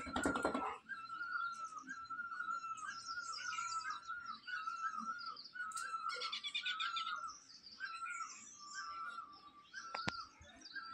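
Small birds chirping: one short hooked call repeated about twice a second, with quicker twittering higher up. A dog's snarl is heard in the first second.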